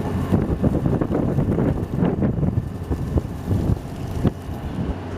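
Wind buffeting the microphone on a fishing boat's deck, over a steady low rumble of the boat and the sea, with a few brief knocks.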